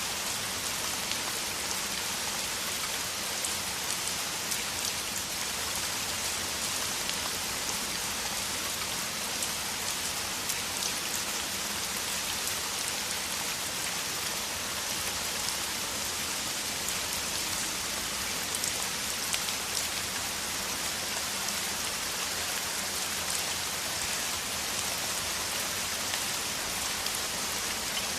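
Downpour of rain: a steady, even hiss with faint ticks of single drops scattered through it.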